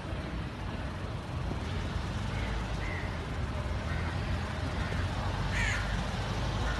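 Air-cooled flat-four engine of a 1973 Volkswagen Beetle running as the car drives slowly closer, a low steady rumble that grows a little louder. A few short high calls sound over it, the loudest about five and a half seconds in.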